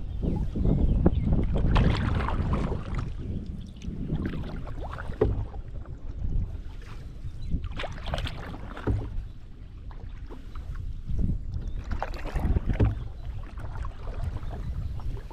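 Canoe paddle strokes swishing and dipping in river water, coming irregularly every second or two, over a steady low rumble of wind on the microphone.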